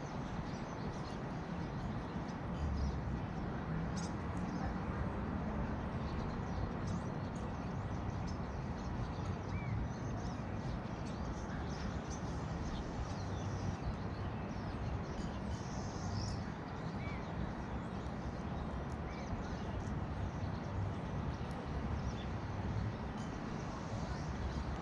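Faint, scattered chirps of small birds over a steady outdoor background rumble.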